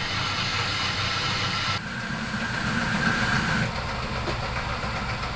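Myford Super 7B lathe running slowly at about 280 RPM, a steady mechanical running sound. About two seconds in the sound changes and a higher, thin tone joins it for a second or two.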